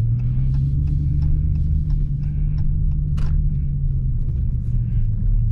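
Dodge Hellcat's supercharged 6.2-litre V8 running steadily at a constant low drone, pitch holding nearly level with a slight step up at the very start.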